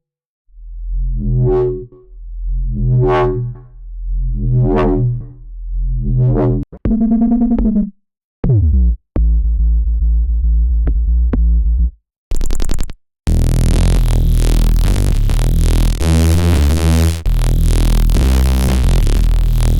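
Vital wavetable synthesizer bass presets being played: four swelling pitched notes, then a steep falling pitch sweep and short choppy notes, and from about two-thirds of the way in a dense, loud bass sound that fills the whole range.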